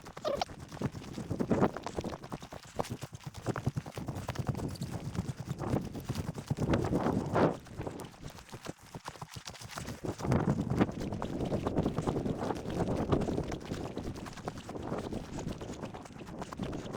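Someone walking through dry brush and grass: uneven footsteps with twigs and vegetation crackling and rustling, in louder and quieter stretches.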